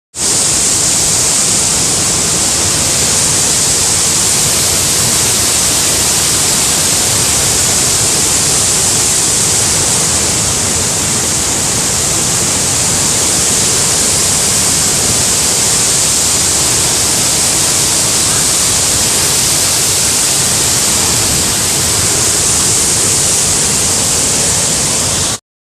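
Waterfall pouring: a loud, steady rush of falling water that cuts off abruptly near the end.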